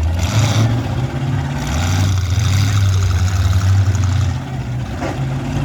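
Demolition derby car engines running loud, their low note rising and falling as they rev.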